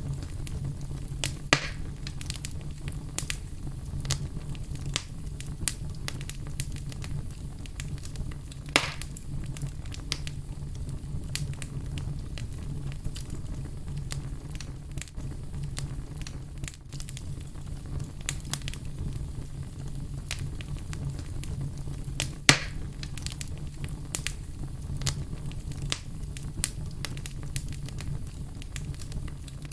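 Fire crackling steadily over a low rumble, with constant small snaps and three louder pops, about a second and a half in, near nine seconds in, and past twenty seconds in.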